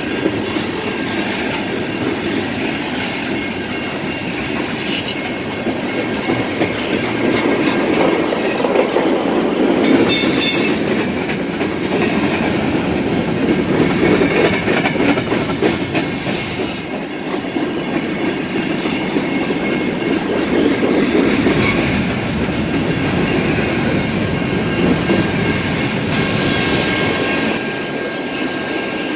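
BNSF freight train of steel coil cars and covered hoppers rolling past at speed: a steady rumble of wheels with clickety-clack over the rail joints and a thin, steady metallic squeal from the wheels.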